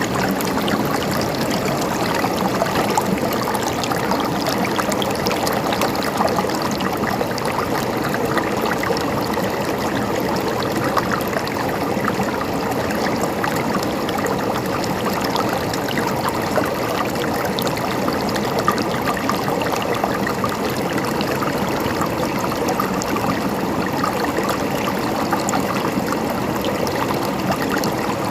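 River water flowing and gurgling over stones, a steady, even rush.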